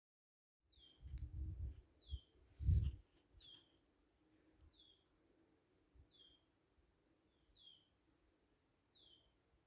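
A songbird repeating a two-note call over and over, a short high note followed by a falling one, about every 0.7 s. Low rumbling thumps, the loudest of them near the end of the third second, come in the first few seconds, and the sound starts after a brief dropout.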